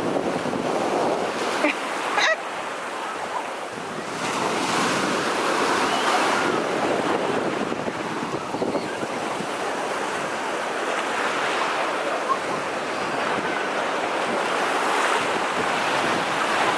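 Surf washing onto a beach, swelling and easing, with wind buffeting the microphone. A short sharp sound about two seconds in.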